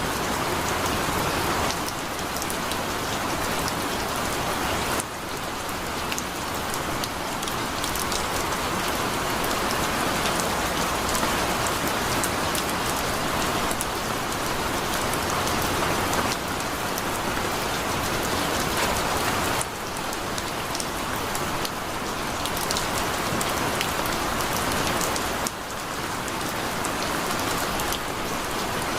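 Heavy rain falling steadily, a dense hiss with individual drops ticking on a surface. The level drops suddenly by a few decibels about three times.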